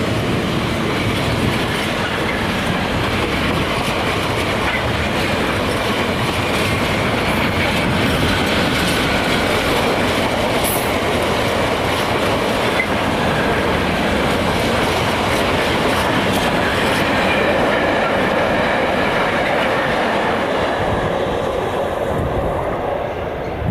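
Freight train wagons rolling steadily past, wheels clattering over the rail joints with a faint wheel squeal; the sound starts to fade at the very end.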